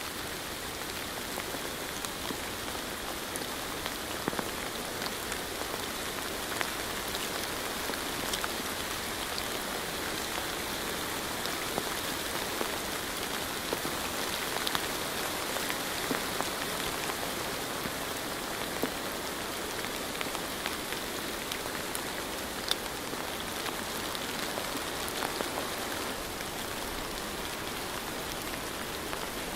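Steady rain falling, an even hiss with many scattered individual drops ticking close by.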